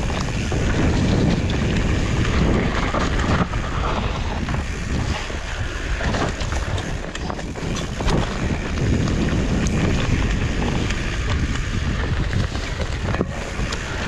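Wind rushing over the camera microphone while riding a mountain bike on a rough trail, with tyre rumble and frequent rattles and knocks from the bike.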